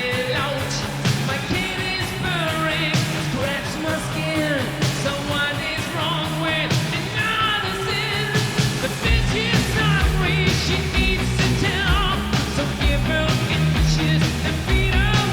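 Hard-rock band playing live: distorted electric guitars with vocals over bass and drums. The low end gets heavier about nine seconds in.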